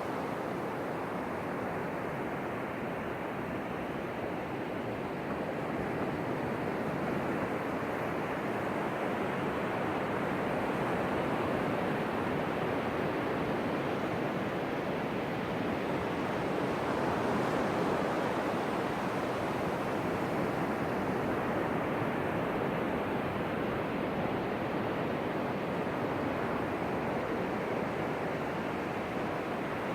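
Ocean surf washing onto the beach, a steady rush that swells a little louder about halfway through.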